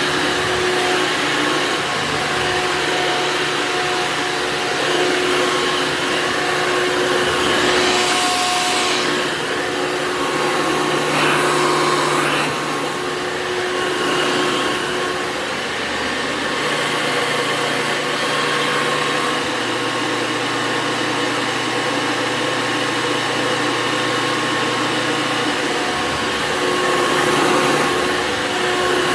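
A motor running steadily with a rushing noise, its low hum shifting pitch a few times.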